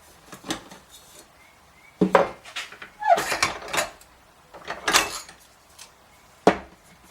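Steel exhaust pipe pieces being handled, clanking and knocking together in a string of sharp metallic hits. The loudest hits come about two seconds in and again near the end.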